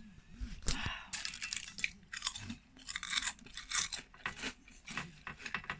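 Someone chewing crunchy food, irregular crunches about twice a second.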